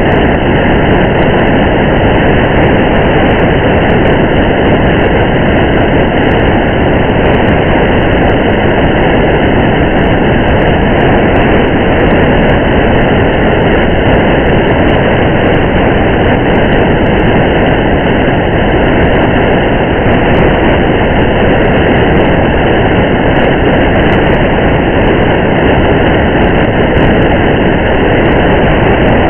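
Steady rain and road noise of a car driving on a wet highway: a dense, even, unchanging hiss and rumble with no breaks.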